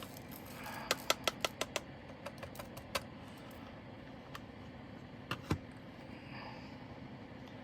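Light, sharp plastic clicks and taps from handling leftover diamond painting drills and their small bags: a quick run of about six clicks a second in, then scattered single ticks and a close pair near the end.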